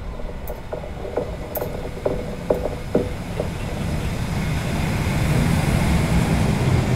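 A DB Class E 10 electric locomotive hauling passenger coaches approaching and passing close. A run of sharp clicks over the first three seconds gives way to a growing rumble of wheels on rail as the locomotive and coaches go by.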